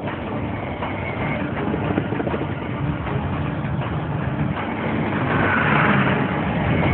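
Vehicle engines and road noise running steadily, growing louder about five seconds in.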